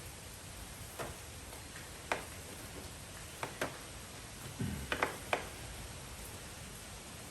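Scattered light clicks and taps, about seven spread irregularly over several seconds, with a dull low thump about halfway through: screws on a window air conditioner being tightened by hand with a hand tool.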